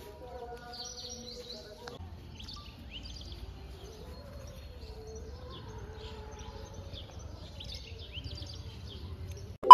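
Small birds chirping on and off over a steady low background rumble, with faint held tones during the first two seconds.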